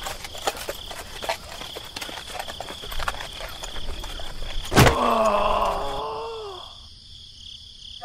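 Insects chirping steadily with scattered light clicks and crunches; about five seconds in, a sharp knock and then a drawn-out animal call that falls in pitch and fades over about two seconds.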